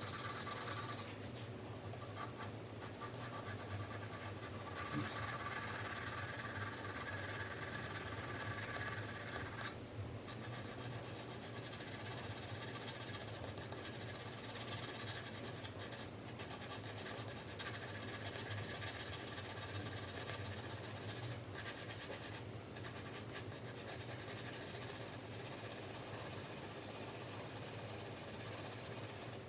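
4B graphite pencil shading on paper: continuous scratching strokes, broken by a few brief pauses where the pencil lifts.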